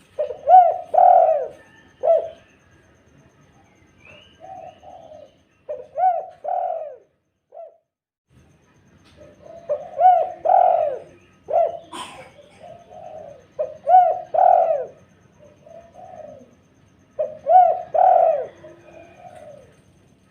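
Spotted dove (tekukur) cooing: phrases of several low, arching coos repeated about every four seconds, with a short pause midway. A sharp click sounds about twelve seconds in.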